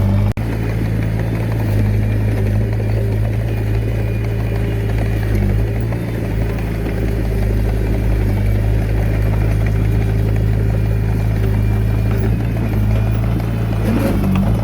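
Diesel engine of a mini bulldozer or dump truck running steadily under work, an even low drone, with a brief dropout a moment in.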